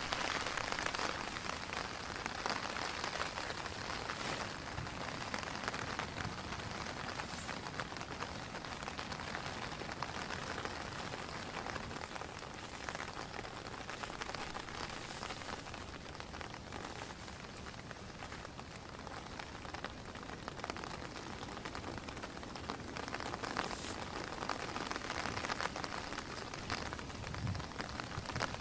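Steady heavy rain, a dense patter of many drops, growing heavier near the end.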